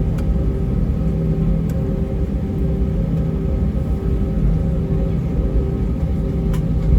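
Cabin noise of an Airbus A320-232 taxiing, its IAE V2500 engines at idle: a steady low rumble with a steady hum over it. There are a few faint ticks.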